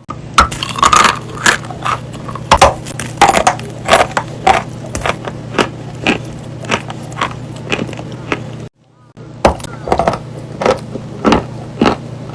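Dry chalk being bitten and chewed close to the microphone: sharp crunches about twice a second over a steady low hum, with a brief drop-out about nine seconds in.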